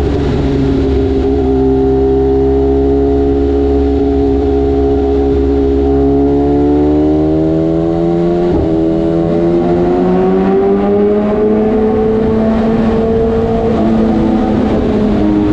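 BMW S1000RR's inline-four engine accelerating under way, its note climbing steadily. A short break comes about halfway through, and the pitch steps down near the end.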